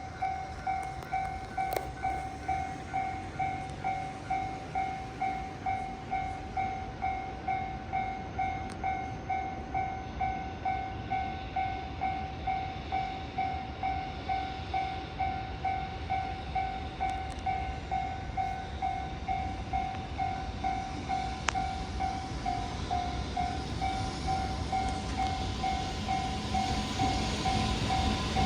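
Level-crossing warning bell ringing in an even, steady ding-ding, about one and a half strikes a second, over a low rumble from the railway that grows louder over the last few seconds as the train draws near.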